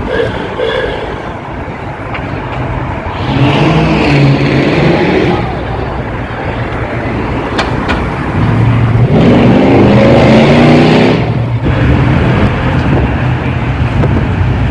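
Car engine revving up twice, the second rev longer and rising in pitch, over the steady rumble of engines running.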